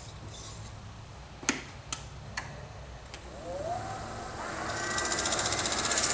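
Three sharp clicks, then a wood lathe motor starting and spinning up about halfway through, its whine rising in pitch and growing louder with a steady hiss.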